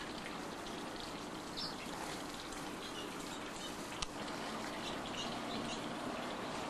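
Canaries giving a few short, faint chirps over a steady rushing hiss, with one sharp click about four seconds in.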